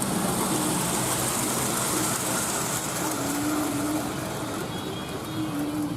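Tri-Rail commuter train passing over a road crossing: a steady rumble of wheels on rail under a strong high hiss, easing slightly near the end.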